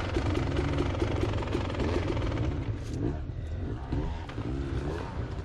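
Beta Xtrainer 300 two-stroke dirt bike engine being ridden, the revs rising and falling over and over; it eases off and gets somewhat quieter about halfway through.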